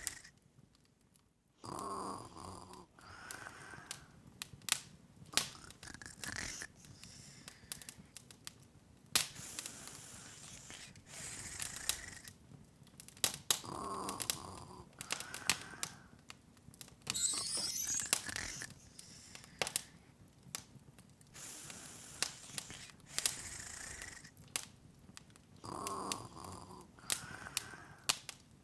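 Open fire crackling, with irregular sharp pops and snaps over a low hiss.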